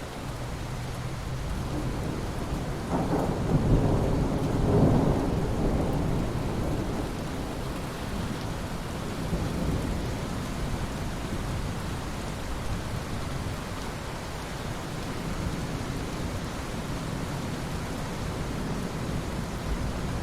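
Steady rain falling, with a roll of thunder that rumbles in about three seconds in, peaks around four to five seconds and fades back into the rain.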